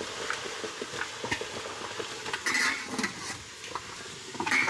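Crab steamer pots on the heat: a steady hiss of steam with scattered clinks and knocks of metal pot and lid, and a louder rush of hiss about two and a half seconds in.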